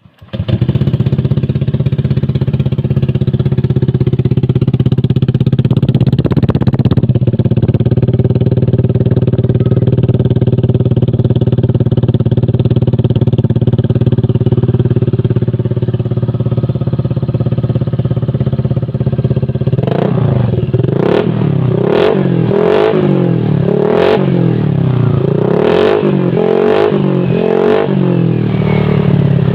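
Motorcycle engine through a Scorpion aftermarket exhaust, idling steadily, then revved in about seven quick throttle blips over the last ten seconds.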